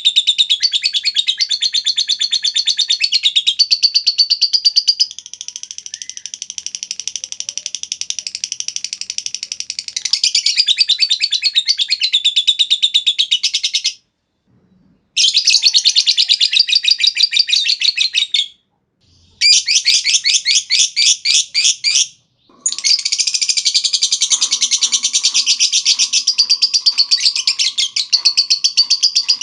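Lovebird chattering in a long, rapid trill of high, shrill chirps (the 'ngekek' call), breaking off briefly three times in the second half.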